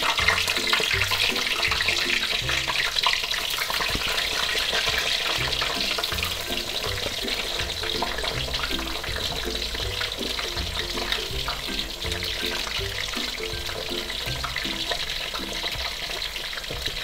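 Eggplant slices deep-frying in hot palm oil in a wok: a steady sizzle, a little louder in the first few seconds while fresh slices go in. Soft background music plays underneath.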